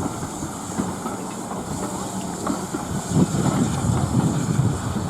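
Steam-hauled train on the move: a steady rumble with a hiss over it, growing louder and more uneven about three seconds in.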